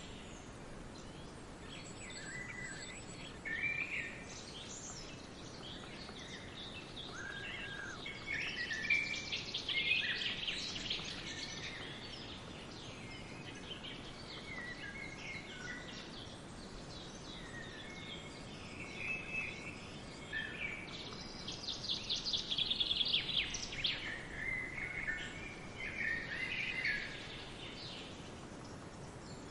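Several small birds chirping and trilling in overlapping calls, with busier stretches of rapid high trills about a third of the way in and again past two thirds, over a faint steady hiss of outdoor background.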